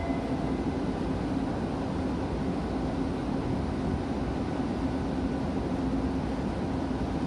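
E2 series Shinkansen standing at the platform with its onboard equipment running: a steady hum and rumble with one constant low drone.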